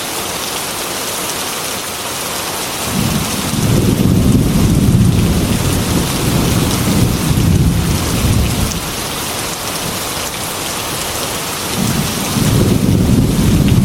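Heavy rain pouring steadily, with a long roll of thunder rumbling in about three seconds in and dying away after about six seconds, and another rumble starting near the end.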